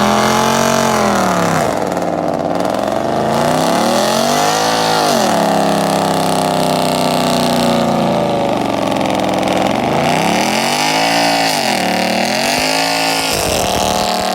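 A 5.0-litre V8 revved hard in a burnout, its pitch climbing and dropping again and again and held high for a few seconds in the middle. The sound cuts off suddenly at the end.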